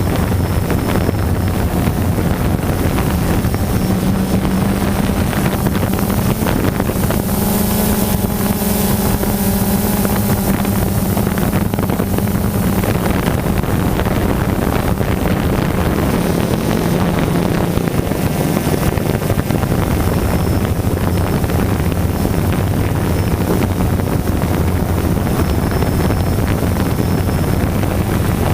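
DJI Phantom quadcopter's motors and propellers buzzing steadily, heard from the GoPro mounted on the drone, with wind noise on the microphone. The hum's pitch rises slightly for several seconds early on, then settles back.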